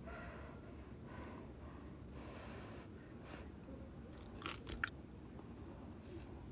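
A person chewing crunchy cheese gyoza in wonton wrappers, faint and close, with a few sharp crunches about four and a half seconds in.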